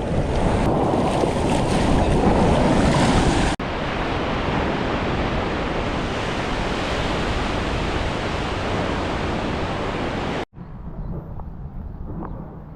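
Surf washing and wind rushing over the microphone, an even loud noise. It breaks off twice with abrupt cuts, and after the second, near the end, it comes back much quieter.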